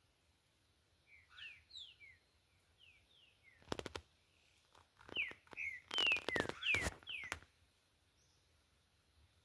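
A bird calling in a dozen or so short, downward-slurred chirps. Quick rattling clicks come twice, about four seconds in and again around six to seven seconds; these are the loudest sounds.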